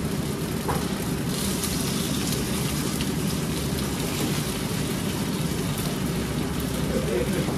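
Food sizzling in hot oil in a pan, a steady crackling hiss over a low steady hum.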